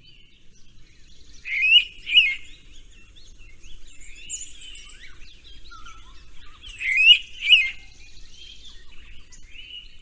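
Birdsong: a loud two-note whistled call given twice, about five seconds apart, over softer chirping and trilling of other birds.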